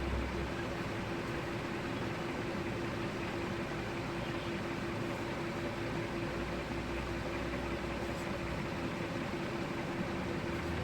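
Rewound 22 kW three-phase induction motor running steadily on its test run: an even hum with one constant tone over it.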